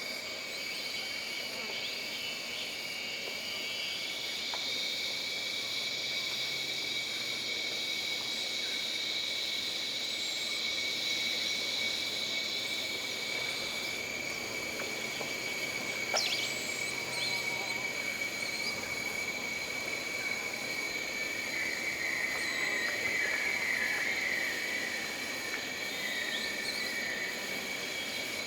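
Jungle ambience: a steady high drone of insects, with a second insect chorus buzzing from about 4 to 14 seconds in. Scattered short chirps sit over it, with a rapid run of chirps about 21 to 25 seconds in and a single sharp click about midway.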